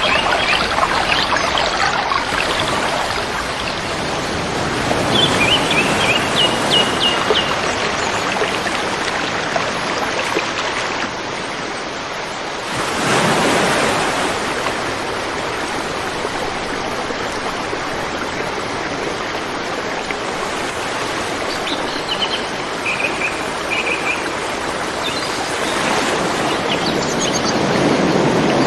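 River water rushing steadily, swelling briefly about thirteen seconds in. Small birds chirp in short runs of notes about five seconds in and again near twenty-two seconds.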